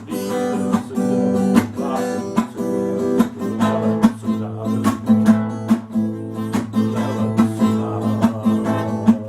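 Acoustic guitar played as a wordless improvisation: chords strummed in a steady rhythm over a sustained low bass note.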